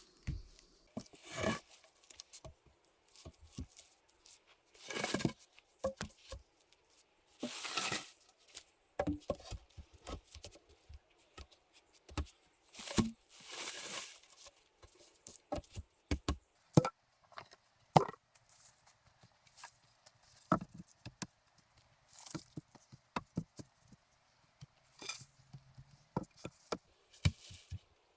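Hand work with tools and materials: irregular knocks and taps, with a few longer scraping or rustling sounds every few seconds.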